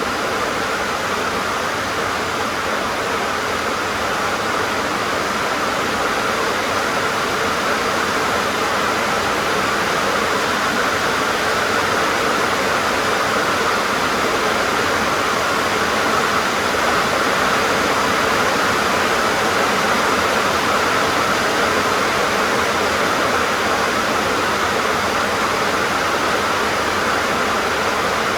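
Heavy rain drumming on a sheet-metal (tin) roof in a dense, steady patter, growing slightly louder around the middle.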